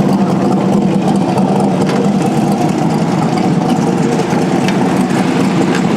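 Drag-race car engine idling steadily and loudly, with a fast, choppy pulse.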